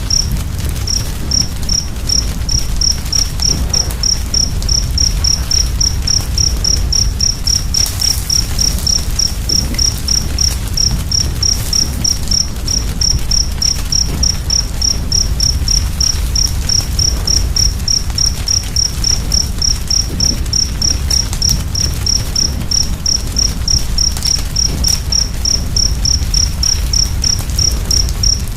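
A cricket chirps steadily at about three even chirps a second, high-pitched, over the low rumble and faint crackle of a wood fire.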